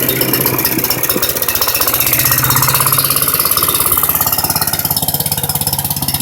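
A 5.5 HP Tecumseh OHV single-cylinder engine on a wood chipper, running with a rapid, even exhaust beat, with no wood being fed.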